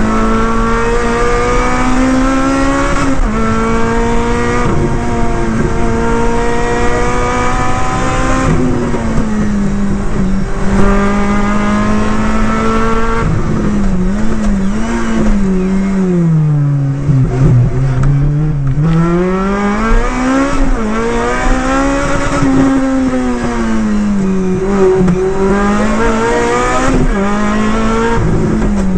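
Rally car engine heard from inside the cabin, working hard through the gears: the pitch climbs and drops back with each gear change, sinks low about halfway through, then climbs again and rises and falls through the last part.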